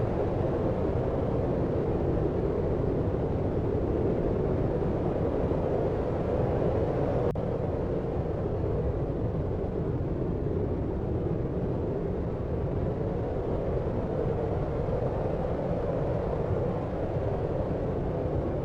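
Steady deep noise for sleep, a low even rumbling hiss that doesn't change, with one faint tick about seven seconds in where the level dips slightly.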